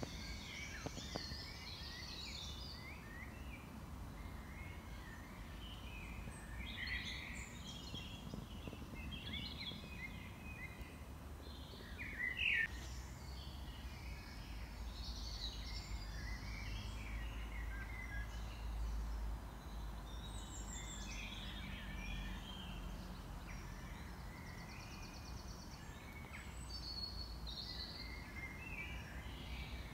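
Songbirds singing and calling, many short overlapping chirps and phrases, with one louder call about twelve seconds in, over a low steady rumble.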